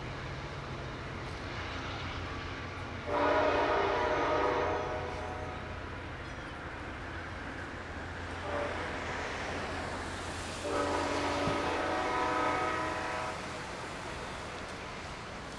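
Locomotive air horn sounding over the steady rumble of a passing train: a long blast about three seconds in, a short toot about eight and a half seconds in, then another long blast. The long, short, long pattern fits the end of the grade-crossing signal.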